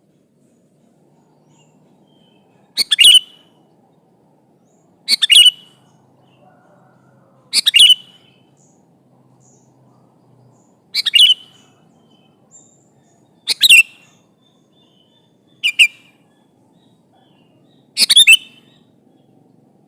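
Sooty-headed bulbul (kutilang) calling: seven short, loud bursts of a few quick chirping notes, one every two to three seconds.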